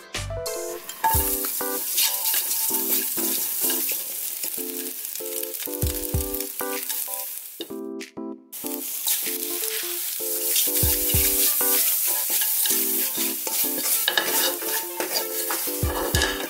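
Sliced conch meat stir-frying in a hot wok with minced garlic and ginger, sizzling steadily as a silicone spatula stirs it. The sizzle breaks off briefly about halfway through, then resumes.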